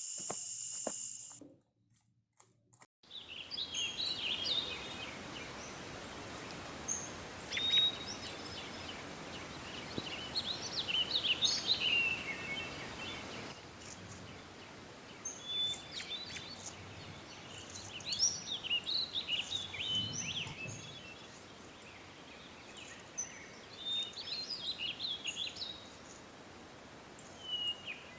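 Songbirds chirping and whistling in short bursts over a steady outdoor background hiss, starting about three seconds in after a moment of near silence. The first second and a half holds a steady high-pitched insect-like trill.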